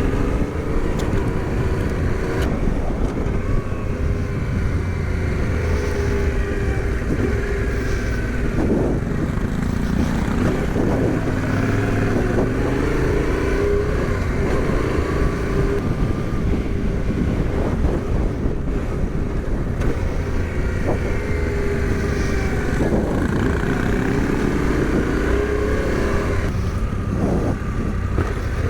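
Adventure motorcycle engine being ridden off-road, its pitch rising and falling again and again as the throttle opens and closes, with a few short knocks from the rough ground.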